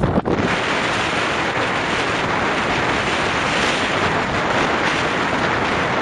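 Storm-force wind blowing hard across the microphone, mixed with surf breaking on the beach: a loud, steady rush of noise.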